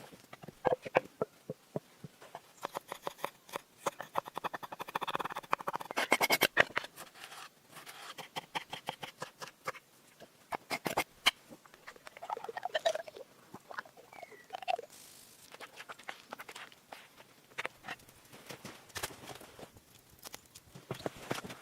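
An irregular run of small clicks, taps and knocks, densest in the first third, with a few short squeaks about halfway through.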